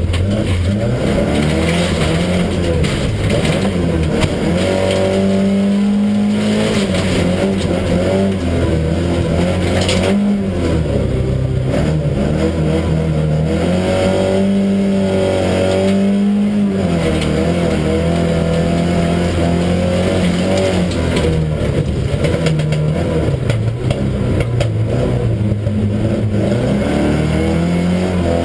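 Saab 99 folkrace car's four-cylinder engine under race load, heard from inside the stripped cabin, its note climbing and dropping back again and again as it is driven hard around the track, over a steady rush of tyre and track noise.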